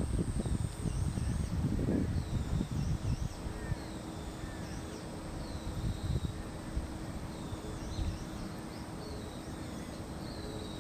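Small birds chirping and whistling in many short high calls scattered through, over a gusty low rumble of wind on the microphone that is strongest in the first couple of seconds and eases off; a faint steady hum runs underneath.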